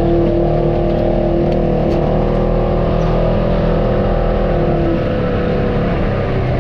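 Off-road vehicle's engine running steadily at a fairly even pitch, with small rises and dips in speed.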